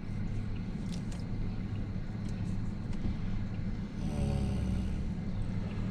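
Steady low engine and road rumble of a vehicle being driven. About four seconds in, a pitched engine note rises briefly over it.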